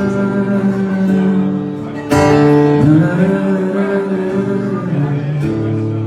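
Acoustic guitar strumming sustained chords live, a new chord struck about two seconds in and another change near the end.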